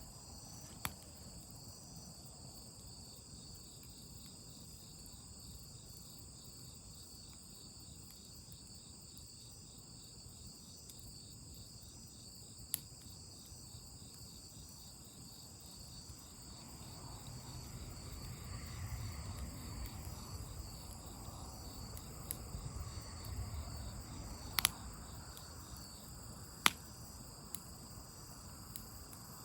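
Crickets chirring steadily in a continuous pulsing chorus, with a few sharp pops of a crackling campfire. A soft low rumble swells up in the middle and fades out before the last pops.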